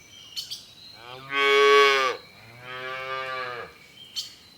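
A calf mooing twice, a loud call followed by a quieter one.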